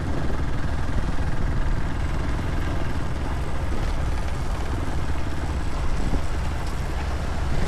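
Steady engine and road noise of a vehicle driving along, a constant low rumble with no distinct knocks or changes.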